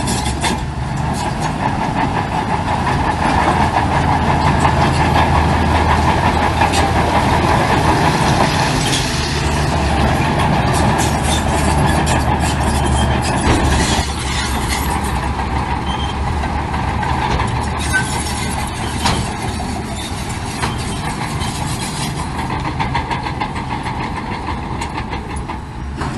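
Heavy diesel earthmoving machinery running steadily, with scattered clanks and rattles. The engine sound shifts abruptly about halfway through.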